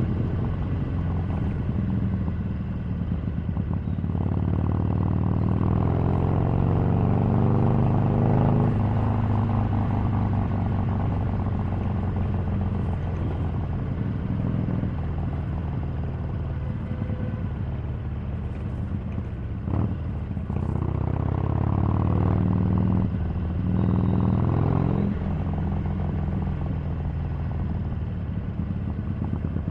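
Harley-Davidson 883's air-cooled V-twin engine running on the move. Its pitch rises as it accelerates, once about five seconds in and again a little past twenty seconds, with short dips in between.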